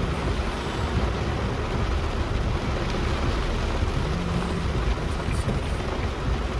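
Vehicle travelling in heavy rain on a flooded road: a steady rush of rain and water noise over a low engine drone.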